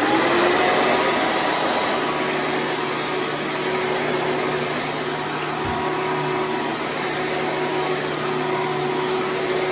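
Hoover Preferred upright vacuum cleaner running steadily, a constant motor hum over rushing air, with no change in pitch.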